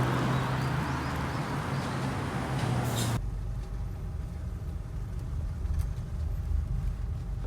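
Motor vehicle running, a steady low rumble that changes abruptly about three seconds in to a duller, bass-heavy rumble.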